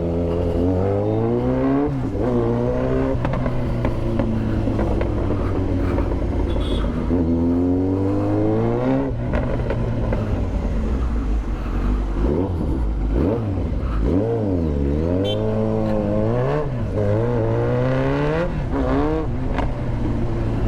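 Motorcycle engine under way, revving up and easing off again and again as it pulls through the gears, its pitch climbing and falling in repeated sweeps.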